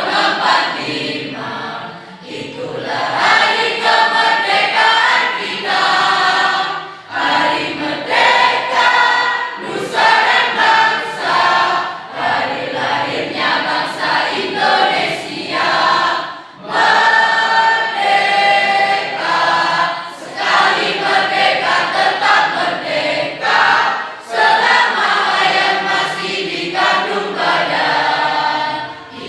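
A high-school choir singing together in phrases, with short breaks between phrases every few seconds.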